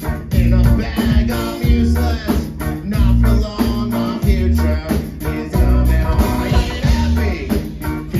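Live punk band playing a song on guitar, bass and drum kit, with heavy bass hits recurring about every second and a quarter.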